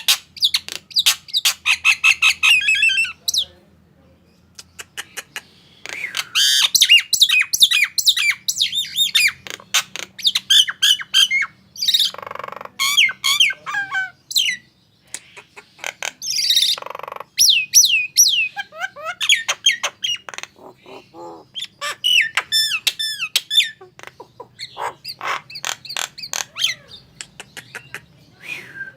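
Nias hill myna calling energetically: rapid runs of loud whistles, squawks and chattering notes that slide in pitch, broken by a few short pauses.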